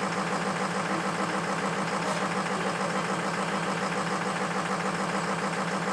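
Ford F-350 engine idling with a steady, fast even pulsing, running on two bad injectors.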